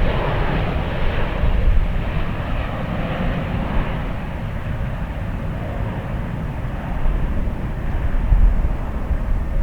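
Jet airliner engines running at power, a loud steady low rumble with a hiss on top that thins out after the first second or so.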